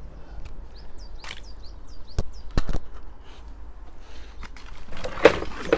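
A small bird chirping a quick run of short, high, hooked notes, with a few sharp knocks a little after two seconds in and some clattering near the end as things are handled.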